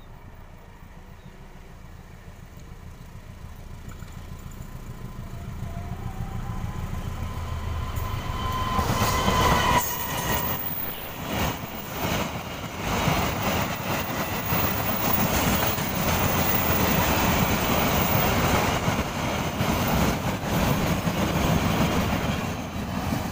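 A diesel-hauled freight train of Pertamina fuel tank wagons: the locomotive's low engine rumble grows louder as it approaches, peaking about nine seconds in as it passes. Then the long string of tank wagons rolls by with a loud rushing rumble and repeated clicks of wheels over the rail joints.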